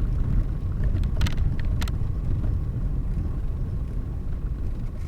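Car driving along a road: a steady low rumble of engine and tyres, with a few short clicks between one and two seconds in.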